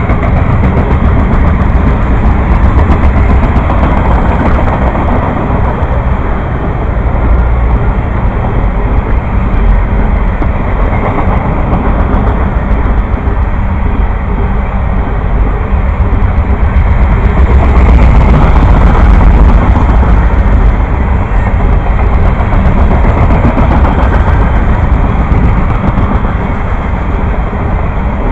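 Juice train, a freight train of refrigerated boxcars, rolling past close by: the steady loud rumble and rattle of its cars on the rails, swelling a little around two-thirds of the way through.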